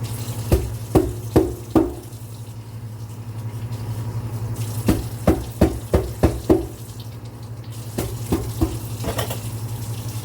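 Water running from a kitchen tap into the sink while a utensil is washed, with quick clusters of sharp knocks and clinks against the sink.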